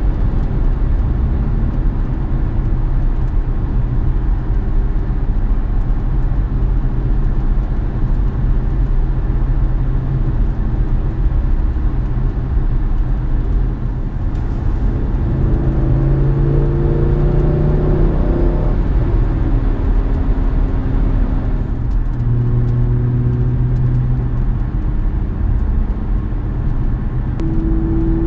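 Inside the cabin of a 2016 Audi S6 with a twin-turbo 4.0 V8, Stage 2 downpipes and a touring exhaust, cruising on the highway in seventh gear: steady road and engine noise. A low exhaust drone swells for a few seconds at a time, about halfway through and again later, which comes with pressing on the pedal and fades off it.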